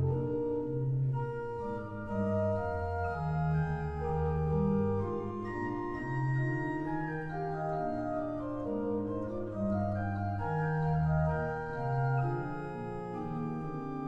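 Church pipe organ playing a slow polyphonic piece, held chords over a bass line that moves step by step. It is the church's organ after cleaning and repair.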